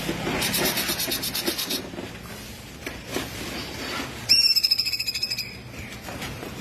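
Cungkok songbird singing: a fast, high trill for about a second and a half near the start, then a loud, piercing, high whistle held for about a second, the sharp 'tembakan' bursts of its full song.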